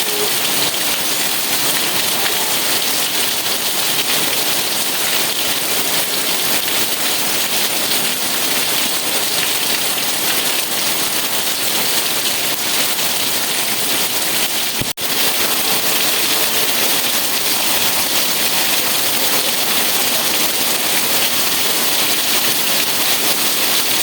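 Steady, dense rainfall hissing evenly, with a brief sudden drop in level about two-thirds of the way through.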